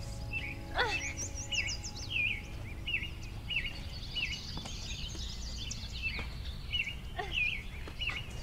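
Forest birds chirping: one short call repeats about every two-thirds of a second, with a few higher chirps and trills among it, over a steady low background rumble.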